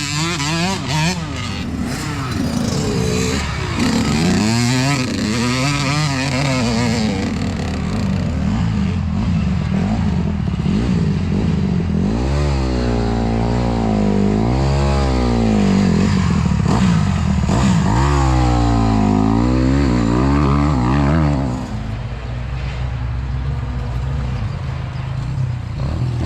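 Youth dirt bikes racing, their engines revving up and down in pitch through throttle and gear changes. One bike is loudest from about halfway through, its engine rising and falling repeatedly, until it drops away a few seconds before the end.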